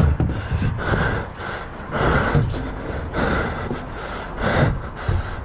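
A person breathing hard close to the microphone, in uneven puffs one after another.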